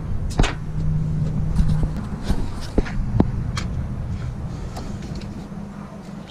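A car engine running steadily, with about a dozen sharp clicks and knocks over it.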